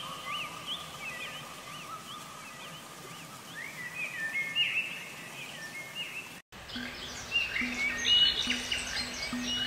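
Birds chirping and singing in quick short calls over a steady hiss. The sound cuts out for a moment about six and a half seconds in; after it the chirping is busier, with a low pulsing hum under it.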